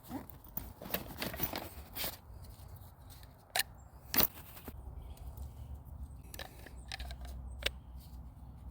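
Irregular crunching and snapping of dry fallen leaves and twigs, with a low rumble underneath that grows in the second half.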